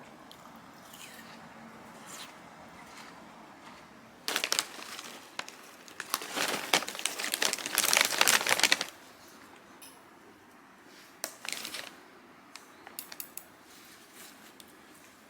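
Crinkling and rustling of something being handled, in a short burst a little over four seconds in and a longer, louder stretch from about six to nine seconds, followed by a few light clicks.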